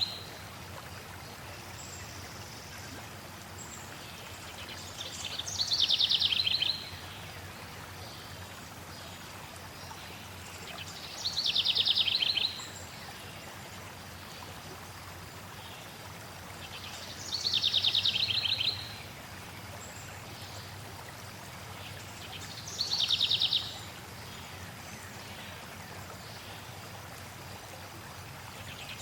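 Steady flowing water with a songbird singing the same short, rapid, falling trill four times, about every six seconds; the bird phrases are the loudest sounds.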